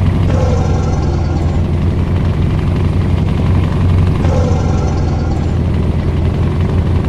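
Scania truck's V8 diesel engine running with a steady deep drone. A short higher sound, about a second long, comes twice, about four seconds apart.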